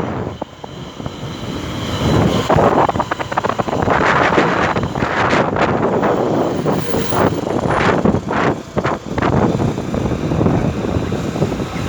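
Motorcycle riding on the road, with engine and road noise and wind buffeting the microphone. The sound dips just after the start and grows louder over the next two seconds.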